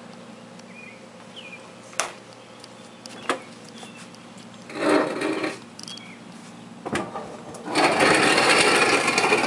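A small refrigerator cabinet being handled and shifted: two sharp knocks, then a short scrape and a longer, louder scraping rub near the end as it slides across a surface. A steady low hum runs underneath.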